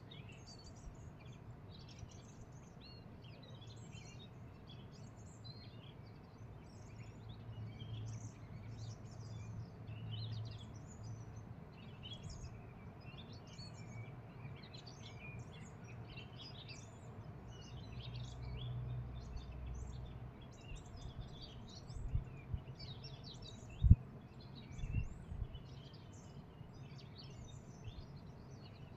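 Many small birds chirping and singing in a continuous chorus, over a low outdoor rumble that swells twice. A few low thumps come in the last quarter, one sharp thump being the loudest sound.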